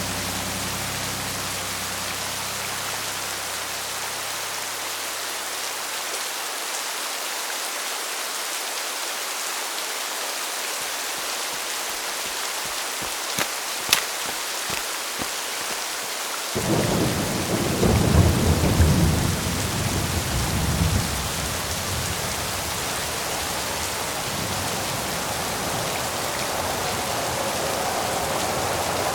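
Steady rain pouring, with a single sharp crack about halfway through and then a rumble of thunder that swells and rolls away over several seconds.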